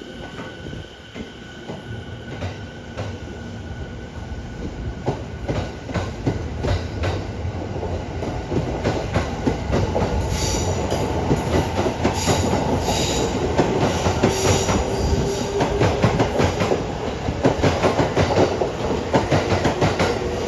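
285 series sleeper electric train (Sunrise Seto/Izumo) running through a station, its wheels clacking over rail joints in quick succession and growing louder as the carriages pass, with some wheel squeal partway through.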